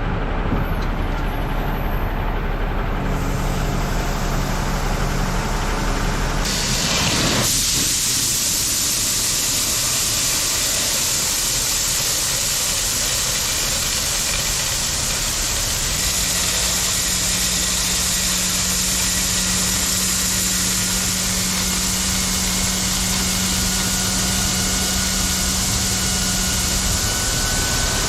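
Heavy truck running, with a steady hiss that gets brighter and louder about seven seconds in and a low steady hum later on.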